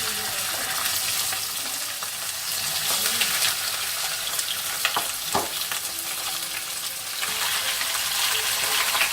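Chicken pieces frying in very hot oil in a non-stick pan, laid in one by one: steady sizzling with spattering crackles, and a couple of sharper crackles about five seconds in.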